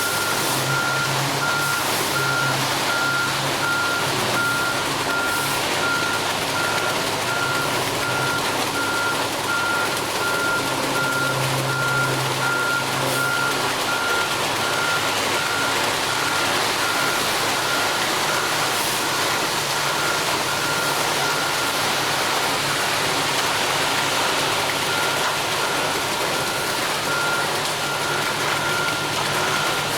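Backup alarm of a front-discharge ready-mix concrete truck beeping steadily and repeatedly over the truck's running engine, as the truck moves in reverse.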